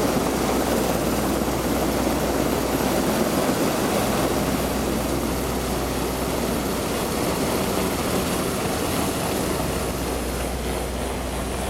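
RAF rescue helicopter's engine and rotor noise, steady and slowly growing fainter, mixed with wind and sea noise.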